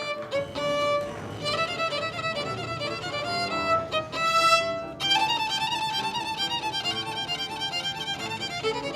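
Violin playing a melody, the notes held with vibrato, a new, higher phrase starting about halfway through.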